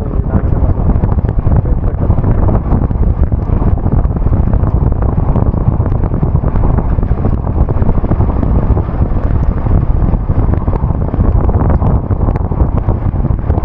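Wind buffeting a GoPro's microphone on a moving two-wheeler: a loud, steady, fluttering low rumble.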